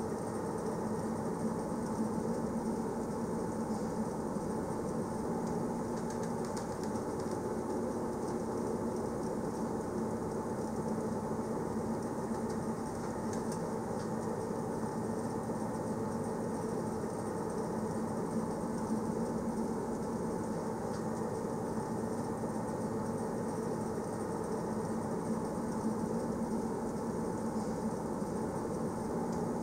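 Passenger train running steadily, heard from inside the carriage: an even rumble with a low hum.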